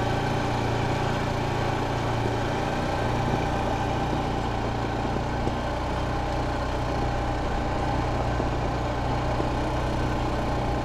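A steady mechanical hum with a low drone, even throughout, cutting off abruptly near the end.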